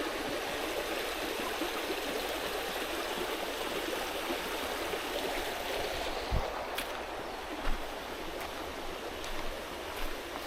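Mountain stream rushing steadily over rocks, with a few short knocks in the second half.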